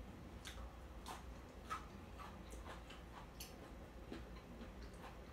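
A person chewing food close to the microphone: soft wet mouth clicks and smacks, about two a second.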